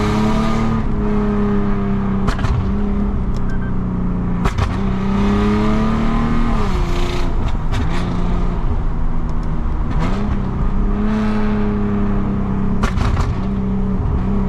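Lexus IS250's V6 engine and exhaust, with gutted catalytic converters, running under way: the engine note holds steady, then drops and climbs again several times as the car shifts and the throttle changes. A few short, sharp cracks cut in at intervals.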